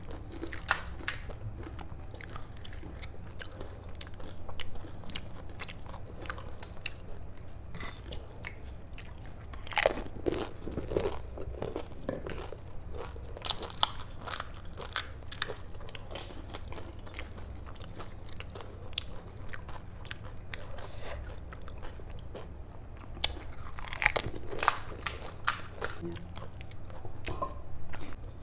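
Pani puri (golgappa) being bitten and chewed close to the microphone: crisp, hollow fried puris crunching in many sharp cracks with chewing between. The crunching comes in denser bursts about a third of the way in, at the middle and again near the end, over a faint low hum.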